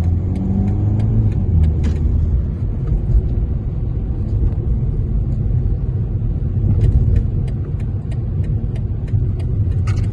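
Car engine and road rumble heard from inside a moving car, with a faint quick ticking over it at times.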